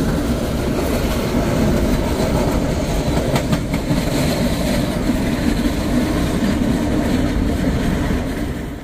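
ZPCG class 6111 electric multiple unit, a Stadler FLIRT, running past close by, heard from inside a motorhome's cab as a steady rumble of wheels on rails, with a few sharp clacks over the rail joints about three and a half seconds in.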